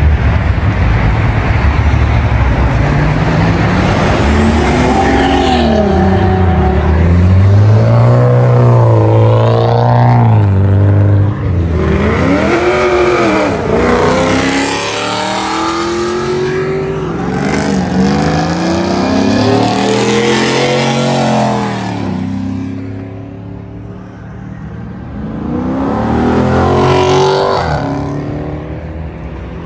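Car engines revving and accelerating as cars pull away one after another, in repeated rising and falling rev sweeps. There is a brief lull about three quarters of the way through before another car revs past.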